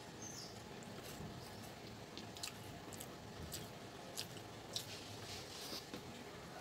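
A person chewing a mouthful of chicken biryani while fingers mix and squish rice on a plate, with scattered small sharp wet clicks over a faint steady hiss.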